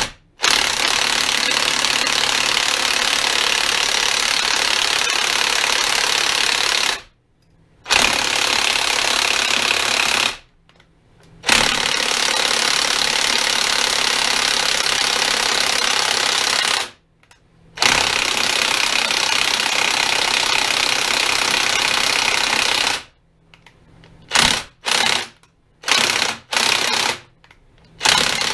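Chicago Electric electric impact wrench hammering on a stuck fastener. It runs in four long bursts of several seconds each with short pauses between, then a series of short blips near the end.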